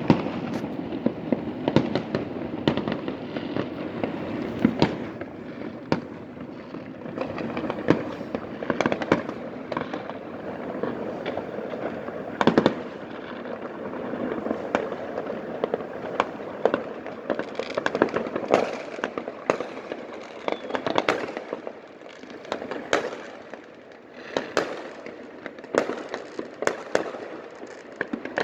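Fireworks going off all over a city: a continuous rumble and crackle of distant bursts, broken by many sharp pops and bangs at irregular intervals, a few of them close and loud.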